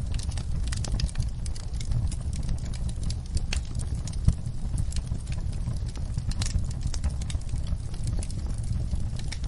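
Wood fire in a fireplace burning, with irregular crackles and sharp pops over a steady low rumble.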